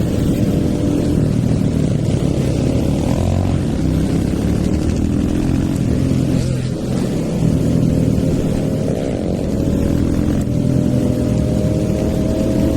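Stage-2-tuned Hero Eco 150 motorcycle engine running under way. It dips briefly around the middle, then its pitch climbs gradually toward the end.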